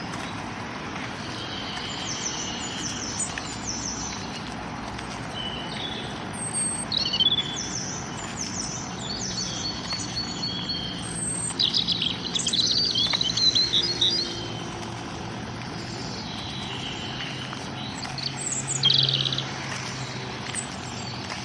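Several small birds chirping and singing in a morning chorus: short high chirps and trills throughout, with a louder run of song about halfway through and another short burst near the end, over a steady low background rumble.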